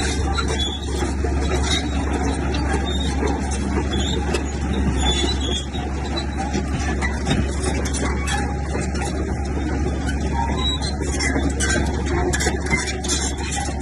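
Komatsu bulldozer's diesel engine running steadily, with a constant low hum and a quick, irregular clatter of metal over it.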